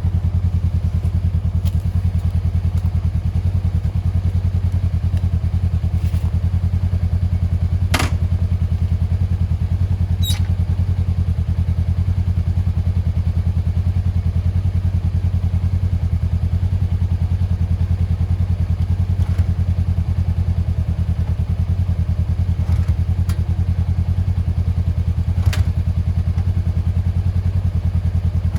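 SL motorcycle engine running at an even idle, with a few short sharp clicks over it.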